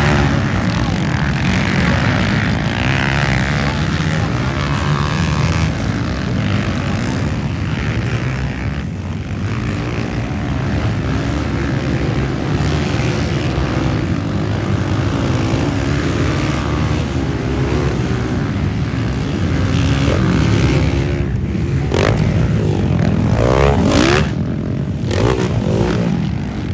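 Motocross bikes' engines running on the track, several at once, making a continuous drone. Near the end, revs rise and fall as bikes accelerate and back off.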